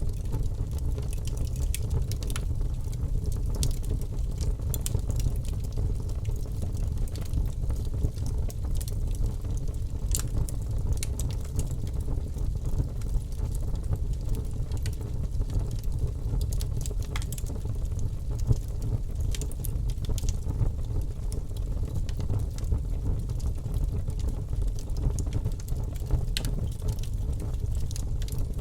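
Campfire burning: wood crackling with frequent sharp pops over a steady low rumble of flame.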